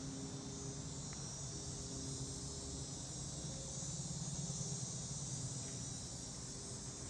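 Steady high-pitched insect chorus, a little louder in the middle, over a low steady hum.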